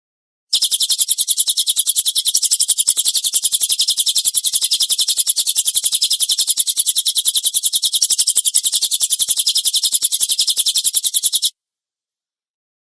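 Recorded songbird giving a rough, rapid-fire chattering call ('tembakan kasar'), a fast even run of about ten harsh high notes a second kept up without a break for about eleven seconds. It starts and cuts off abruptly into dead silence, as an edited bird-training track.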